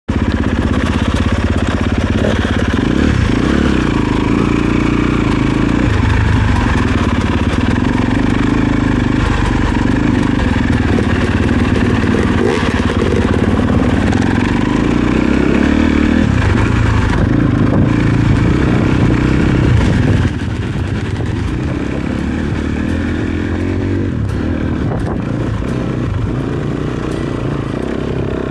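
Dirt bike engine running at changing revs, rising and falling in pitch. The overall level drops abruptly about two-thirds of the way through.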